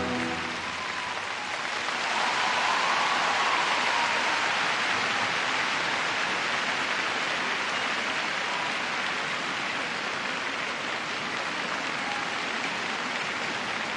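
Large arena crowd applauding as the program music ends, swelling about two seconds in and then slowly tapering off.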